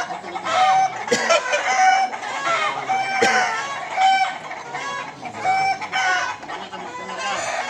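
Several roosters crowing and clucking at once, their calls overlapping and repeating about once a second. Two sharp knocks are heard about a second and three seconds in.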